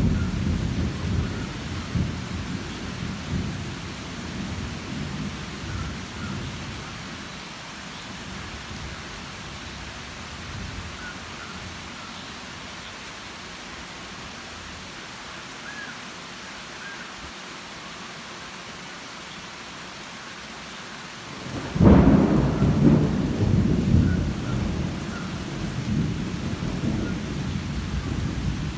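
Thunder over steady rain. A rumble dies away over the first several seconds, then a sudden loud clap of thunder about three quarters of the way in rolls on and slowly fades.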